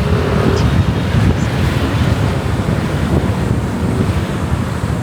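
Wind buffeting the microphone of a rider on a moving motorcycle, a steady loud rumble with the bike and road noise underneath.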